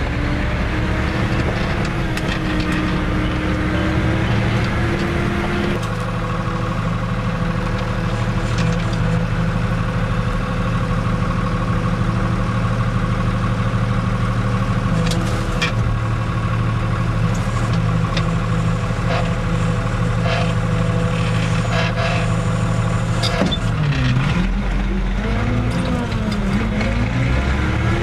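Fiat 110-90 tractor's diesel engine pulling away and rising in pitch, with a change in its note about six seconds in, then running steadily. Near the end the engine note dips and swings up and down as the speed changes.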